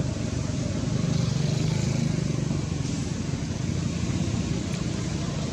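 A steady low engine rumble with a constant hum and a light hiss over it.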